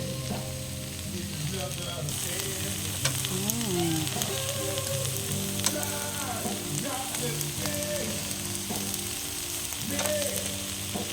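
Meat sizzling and crackling on a barbecue grill: a steady hiss with many small pops.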